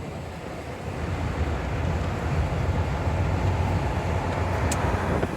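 German fire engine's engine pulling under power with wind and road noise, getting louder over the first couple of seconds and then holding steady. A couple of sharp clicks near the end.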